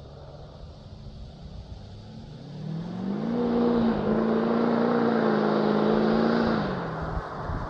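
2006 LBZ Duramax 6.6-litre V8 turbodiesel through a 5-inch straight-piped MBRP exhaust with a 3-inch downpipe. It runs low at first, revs up about two and a half seconds in, holds a loud steady note for about three seconds, then drops back near the end.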